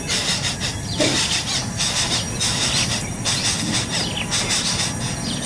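Nestling birds' raspy, hissing begging calls, coming in repeated bursts with short gaps, with a few short falling squeaks mixed in.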